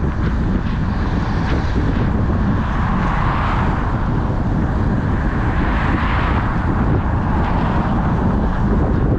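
Car driving on wet pavement: a steady low road and engine rumble with the hiss of tyres on the wet road, swelling twice, about three and a half and six seconds in.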